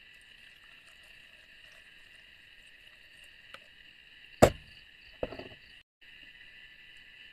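Steady high chorus of forest insects such as crickets, with two sharp knocks a little after the middle, the first much the louder.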